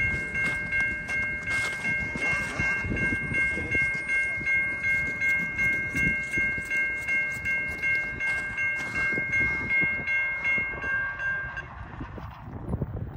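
Freight train rolling past with a low rumble of wheels on rail, while a warning bell rings steadily about twice a second. The bell stops about a second and a half before the end, and the train noise dies down.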